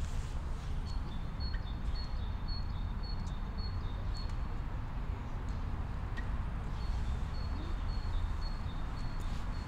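A small songbird singing a repeated two-note phrase, a high note then a slightly lower one, about twice a second, in two runs with a pause between them. Under it runs a steady low rumble.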